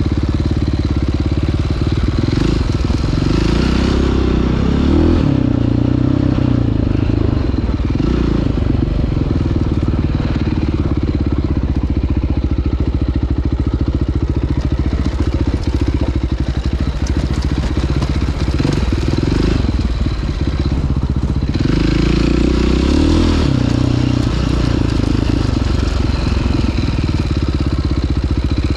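Dirt bike engine running under way on a trail ride, steady and loud, with the revs climbing twice: about three seconds in and again past twenty seconds.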